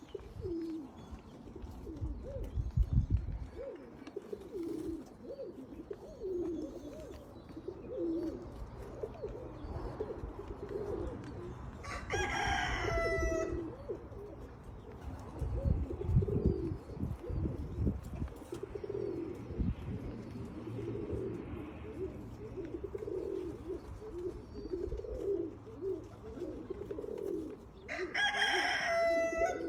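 Qatif pigeons cooing over and over, with a rooster crowing twice, once about twelve seconds in and once near the end.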